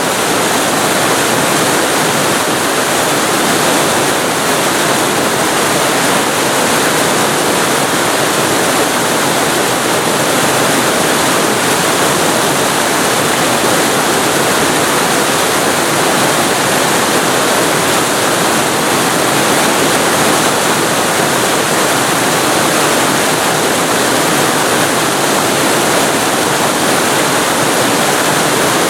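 Waterfall recorded very close to the falling water: a loud, dense, steady rush with no change.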